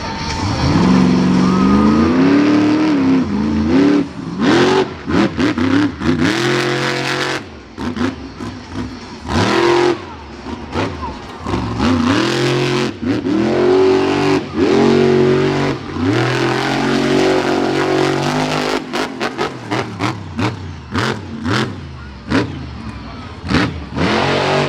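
A monster truck engine revving hard again and again, its pitch climbing and dropping with each blip of the throttle, with many short sharp bangs between revs, thickest near the end.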